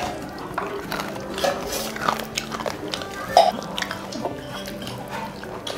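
Close-up sounds of two people eating rice and fish curry by hand: wet chewing and lip smacking, with the squelch of fingers mixing rice, as a run of irregular short clicks, the loudest about three and a half seconds in.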